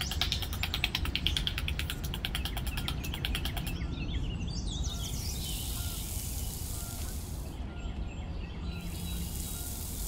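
Birds chirping over a low rumble. A fast, high ticking trill runs for about the first four seconds, and a steady high hiss comes in twice after that.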